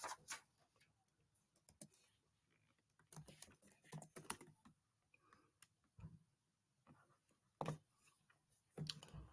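Quiet room with a few faint, scattered clicks and taps, clustered about three to four and a half seconds in and again near the end.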